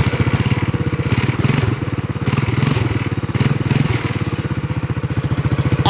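Mini bike engine running through a straight-pipe exhaust: a loud, rapid, even train of exhaust pulses, wavering a little in the middle. It sounds like a real motorcycle.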